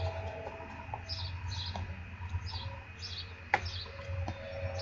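A small songbird chirping over and over, short high notes coming about twice a second, over a low steady rumble. A single sharp knock comes about three and a half seconds in.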